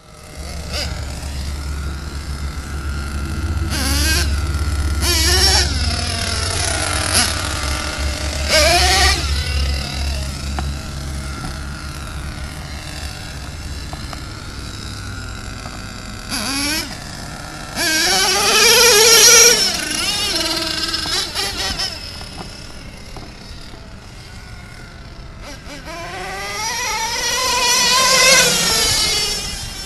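SH .21 nitro engine with a chrome tuned pipe in a 1/8-scale RC monster truck, revving high-pitched as the truck drives around. The pitch rises and falls on three louder passes, the loudest a little past halfway.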